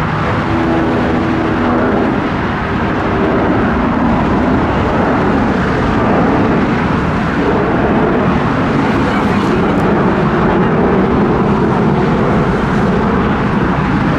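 Jet engine noise from an Airbus A340-300 airliner, its four CFM56 turbofans making a loud, steady noise, with faint steady tones in the first few seconds.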